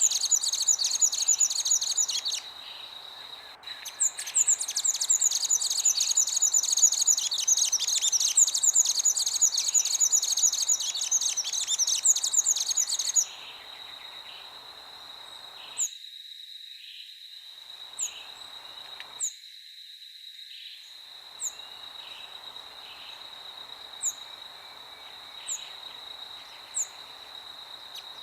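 Birds chirping in a dense, rapid chatter, with a short break about three seconds in, that stops abruptly about thirteen seconds in. After that a steady high tone remains, with single short chirps every second or two.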